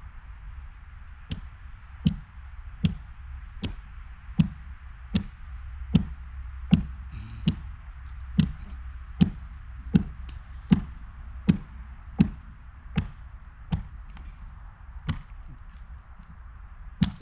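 A steady run of sharp knocks, about one every three quarters of a second, over a steady hiss and a low rumble.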